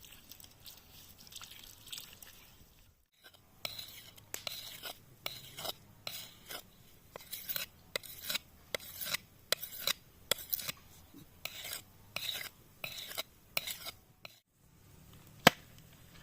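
Rhythmic scraping strokes, about two a second, against a hard surface during food preparation. After a short gap, a single sharp knock near the end.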